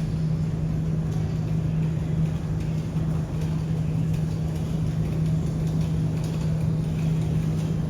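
Machinery running steadily: a constant low hum over a dense rushing noise, with no change in pitch or level.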